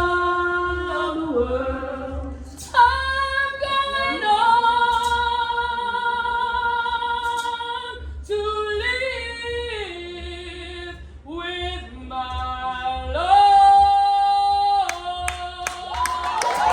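A woman singing a spiritual a cappella, drawing out the closing phrase in long held notes that step up and down in pitch. Crowd cheering breaks out right at the end.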